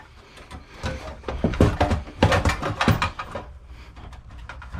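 Clattering metal knocks and rattles as a hard drive is worked loose from the drive bay of an old desktop computer case. The knocks are thickest between about one and three and a half seconds in.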